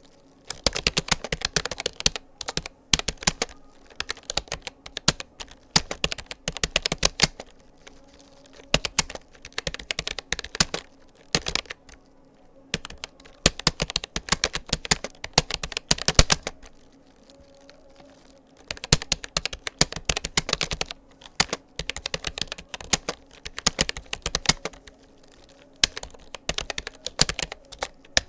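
Rapid typing on a Rapoo computer keyboard: dense runs of key clicks lasting several seconds, broken by brief pauses, three times.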